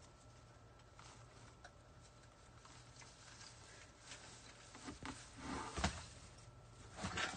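Faint handling noises on a work table: scattered light clicks, then rustling and a few knocks from about four seconds in, loudest around six seconds and again near the end.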